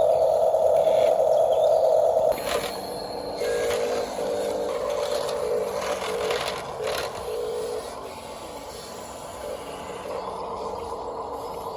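Small electric motors and gearboxes of remote-control toy construction vehicles whining. A steady whine cuts off about two seconds in, followed by shorter whines that shift in pitch, with a few clicks.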